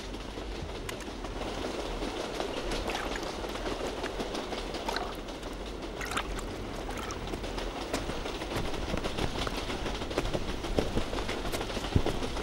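A train in motion: a steady rumbling noise with scattered clicks.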